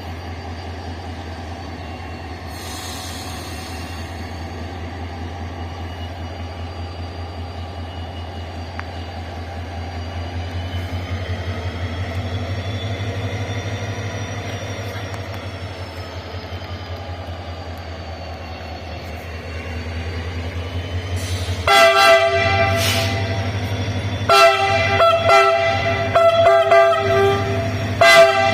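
Diesel locomotive 040-GT565 running with a steady low drone, then about 22 seconds in its multi-tone horn sounds: one blast followed by a string of short toots.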